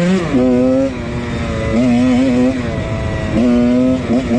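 1999 Husqvarna CR125's single-cylinder two-stroke engine revving under a rider, its pitch climbing and dropping with the throttle and easing off twice, about a second in and again near three seconds.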